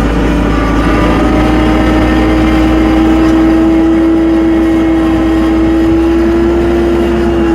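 Tractor driving under power: a steady engine note that rises slowly and slightly in pitch.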